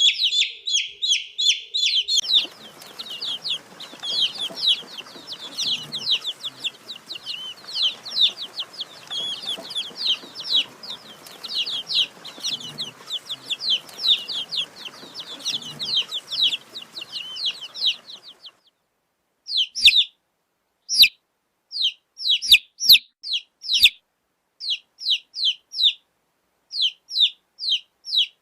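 Baby chicks peeping: a dense stream of rapid, high chirps over a low background hiss for about the first eighteen seconds. After a brief total silence, the peeps come in short separate bursts with silent gaps between them.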